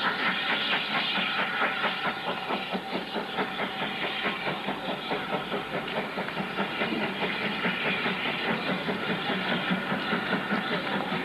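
Steam train running, with a steady, quick pulsing rhythm over a continuous noisy hiss.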